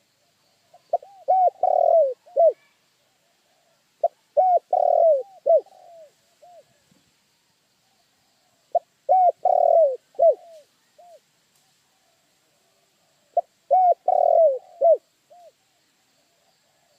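Spotted dove (tekukur) cooing: four phrases of low, arched coo notes a few seconds apart, each a short note, a longer rolling coo, then a few shorter notes trailing off.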